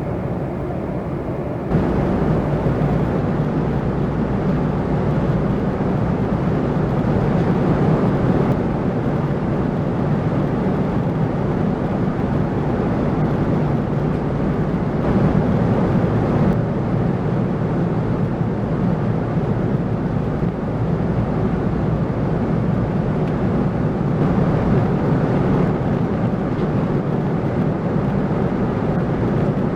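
Steady rushing cabin noise of a Boeing 747-400 in flight, the drone of engines and airflow heard inside the cabin. It steps up louder about two seconds in and then holds steady.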